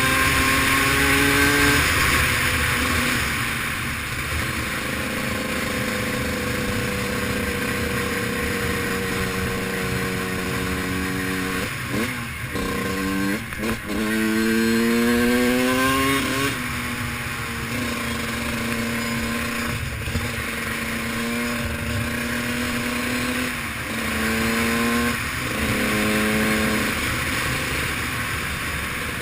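Dirt bike engine running under way on a gravel road, its revs holding, dropping and climbing again through gear changes, with a sharp dip and a fast climb about twelve seconds in.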